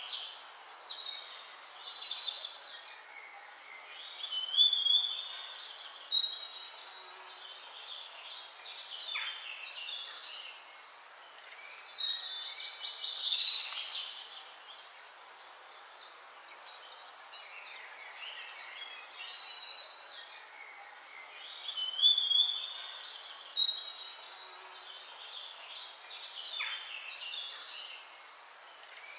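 Birdsong: several birds chirping, trilling and whistling in bursts every few seconds, over a faint steady hiss.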